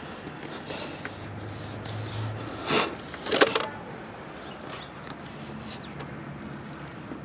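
Two short scrapes about half a second apart in the middle, with a few faint ticks of metal handling around them.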